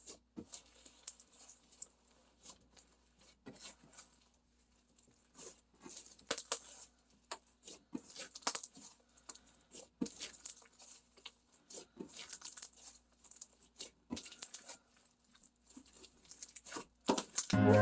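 Black slime mixed with foam beads being squished and stretched by hand, giving irregular small crackles, pops and crunches.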